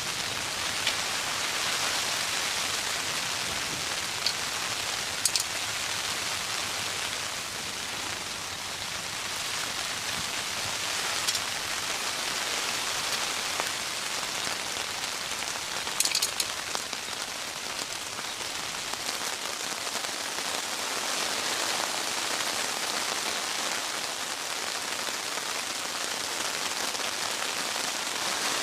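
Steady rain falling, a dense even hiss, with a few sharp louder drop clicks here and there, a couple of them close together about halfway through.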